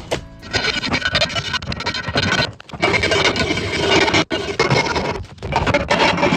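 Hand file rasping in long back-and-forth strokes with short breaks, filing rough casting edges off the handle of a cast iron pan.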